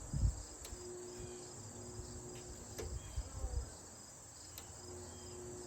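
Tecumseh hermetic compressor of a 1956 Fedders window air conditioner being tried, humming faintly in short stretches with soft clicks about two seconds apart but not running up: it fails to start and seems to need a start capacitor (hard-start kit). A steady high-pitched chirring runs underneath.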